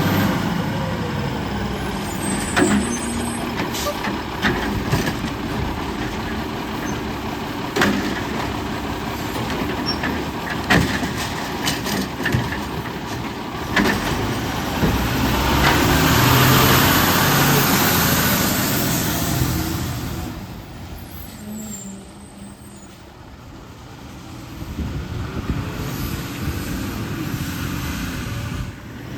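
Autocar WX64 front-loader garbage truck at work: the diesel engine runs steadily under several sharp metal clanks and bangs, typical of the forks and a steel trash container. About halfway through, a loud hissing rush swells for several seconds, then fades, and the truck goes quieter for a few seconds.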